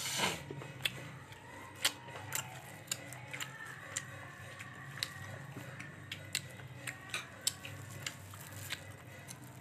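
Close-up chewing of crunchy food: a loud bite at the start, then irregular sharp crunches and mouth clicks, one to a few a second.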